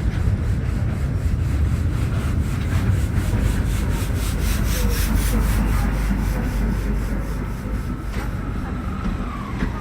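Class 73-hauled rail head treatment train passing: a heavy low rumble with a quick, regular ticking of wheels over the rail, easing slightly near the end.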